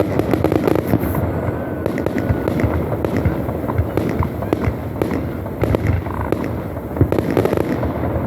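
Fireworks display: a dense, continuous run of pops and crackles from bursting shells, with a few sharper bangs, the strongest about seven seconds in.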